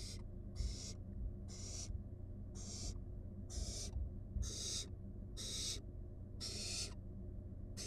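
Owl nestling giving a run of hissing calls, short rasping hisses about one a second, over a steady low electrical hum.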